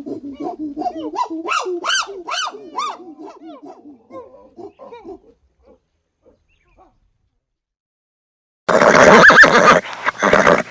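Farm animal calls: a quick run of short, high, pitched calls over the first few seconds, fading out. After about three seconds of silence comes a loud, harsh, noisy call from a large animal, broken into a few pieces.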